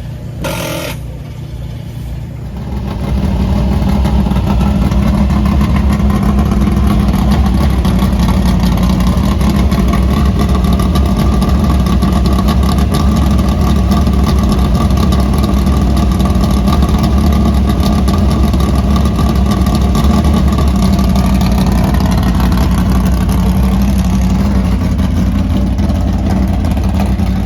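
Dirt modified race car engine that grows much louder about two and a half seconds in, then runs at a loud, steady idle as the car is readied to roll out.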